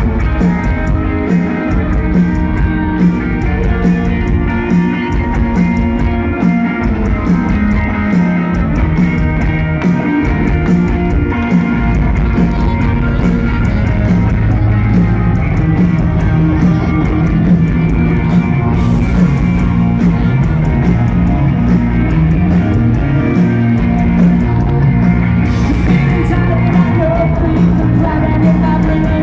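Live rock band playing loudly, with singing and electric guitar.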